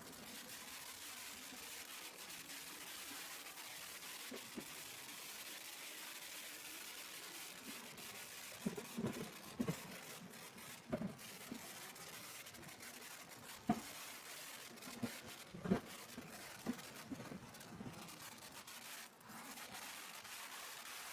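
Steady rush of wind on a camera microphone carried in a rider's backpack at highway speed, with scattered short knocks and rubbing of the camera against the pack.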